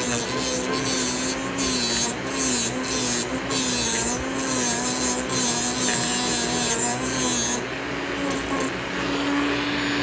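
A power tool's motor running with a slightly wavering hum, with a gritty rasping noise that comes and goes in short strokes as it works against the material. The rasping stops about three-quarters of the way through, and the motor carries on alone at a slightly higher pitch.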